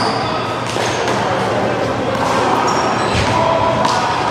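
A small rubber handball being struck by hand and smacking off the wall and pavement during a one-wall handball rally: a few sharp slaps, with voices in the background.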